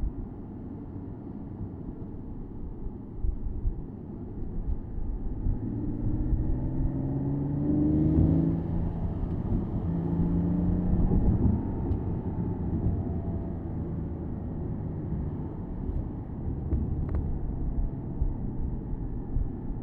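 Porsche Boxster S (987.2) flat-six engine, heard from the open-top cabin over road and wind noise. The engine pulls up in pitch under acceleration, breaks off briefly about eight seconds in, pulls again, then eases back to a steady cruise.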